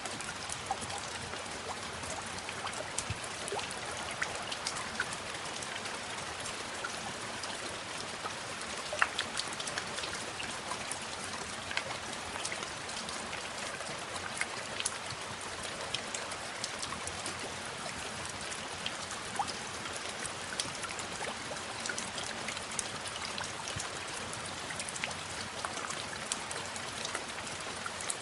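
Steady rain, an even hiss dotted with many sharp individual drop hits, one louder hit about nine seconds in.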